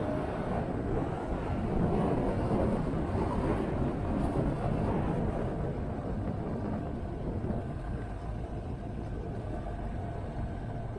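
Motorcycle engine running on the move, with wind rushing over the microphone, a little louder about two seconds in.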